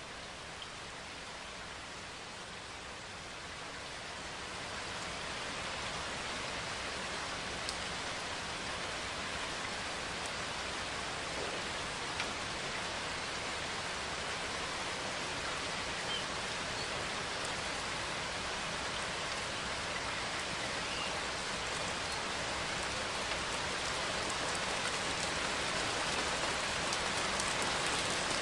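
Steady rain falling, an even hiss with occasional single drops ticking, slowly growing louder as the rain picks up.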